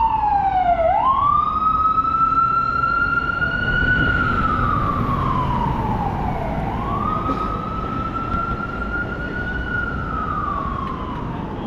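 Emergency vehicle siren sounding a slow wail, its pitch rising quickly and falling slowly, twice over, growing a little fainter near the end, over the low rumble of city traffic.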